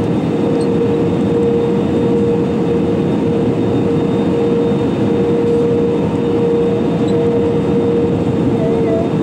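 Cabin noise inside an Airbus A320-200: a steady rumble of engines and airflow with a constant hum running through it.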